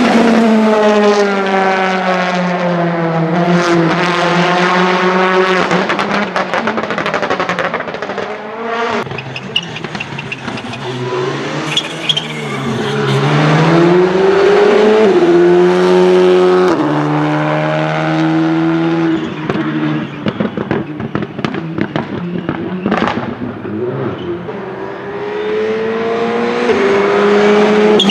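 Rally car engines running hard on tarmac, their revs falling under braking, then climbing and stepping with quick gear changes, with a few short sharp cracks along the way.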